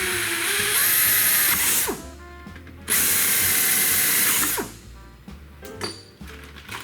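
Power drill run twice, each for about two seconds with a short pause between, drilling holes through the sheet metal of an aircraft propeller spinner for Clecos.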